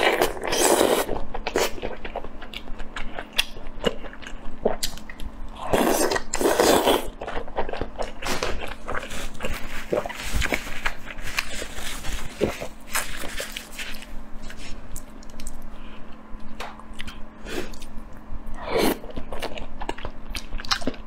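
Close-miked eating: chewing and biting with many small wet mouth clicks. Three longer, louder mouth noises come near the start, around six seconds in and near the end.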